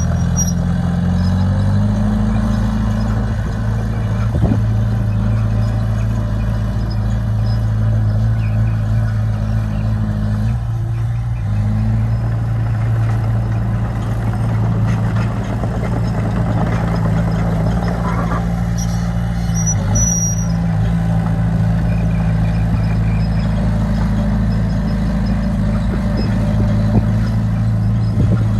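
Heavy diesel earthmoving machinery engine running steadily, its pitch shifting up and down a few times as throttle and load change.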